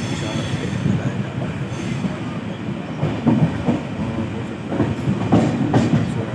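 A train running along the track: a steady rumble of wheels on rail, with irregular clacks over the rail joints that grow louder in the second half.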